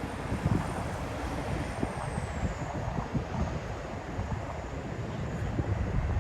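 Jet airliner passing at a distance, its engine whine a faint high tone that falls in pitch about two seconds in, over a low rumble and gusty wind buffeting the microphone.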